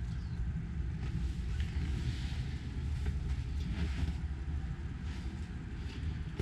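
Steady low rumble of background noise with a few faint light knocks, with no clear source.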